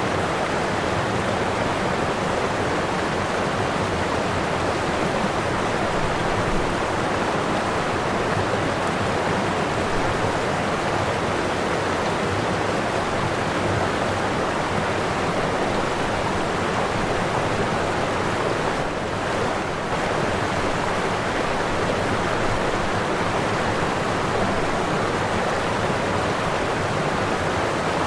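Waterfall rushing: a steady, dense wash of falling water that dips slightly for a moment about two-thirds of the way through.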